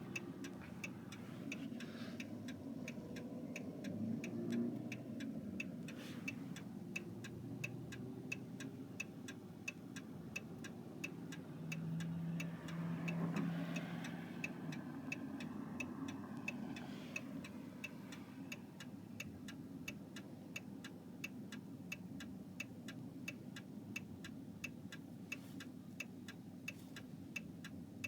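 Car turn-signal indicator clicking steadily, about three clicks a second, over a low rumble of engine and road noise.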